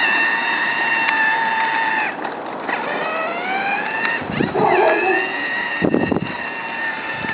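High-pitched whine of a small electric drive motor on a child's ride-on car, steady while the car moves. It cuts out briefly about two seconds in and rises in pitch as it picks up again, with another short break and a knock near the end.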